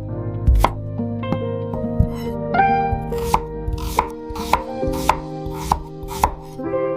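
Knife chopping vegetables on a cutting board, about two strokes a second, over soft background music with sustained notes.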